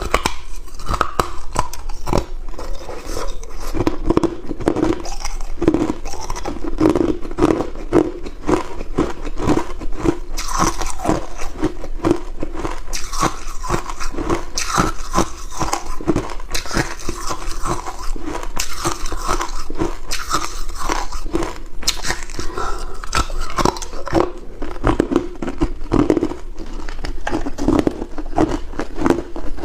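Hard ice cubes being bitten and chewed close to the microphone, with a rapid, continuous run of loud crunches and cracks.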